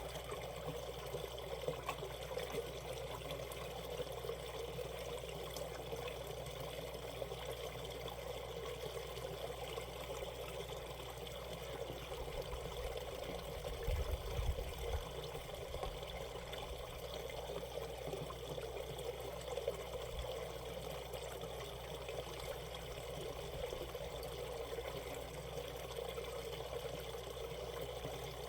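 Shallow mountain stream flowing and trickling over rocks in a steady rush, with a brief low rumble about halfway.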